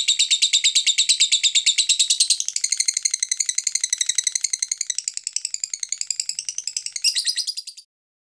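Lovebird chattering: a rapid, unbroken string of shrill chirps. It is loudest for the first two seconds or so, then softer, with a brief louder flurry near the end before it cuts off suddenly.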